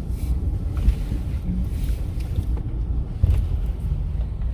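Steady low rumble of a car heard from inside the cabin, with a few faint clicks and knocks.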